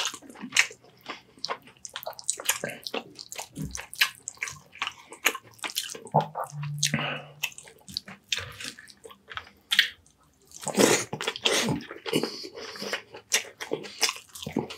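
Close-miked eating: wet chewing and lip smacks with many quick clicks, as baked fish and rice are eaten. A brief low hum comes a little under halfway through.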